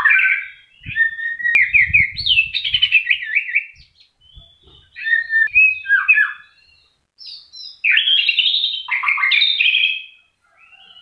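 White-rumped shama singing in three bursts of rapid, varied whistled phrases with short pauses between them. Some soft low thuds come in the first few seconds.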